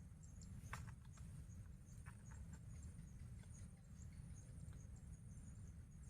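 Faint insects chirping in a high, evenly repeated pulse, with scattered small clicks and crackles, the loudest under a second in, over a low rumble.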